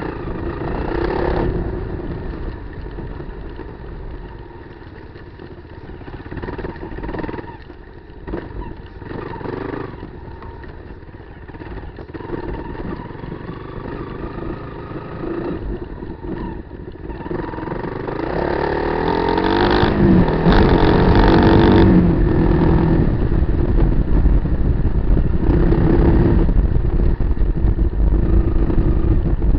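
Kawasaki KLR250's single-cylinder engine being ridden off road. It runs at modest revs with some knocks and clatter, then, about nineteen seconds in, revs up with a rising pitch and stays loud at higher revs to the end.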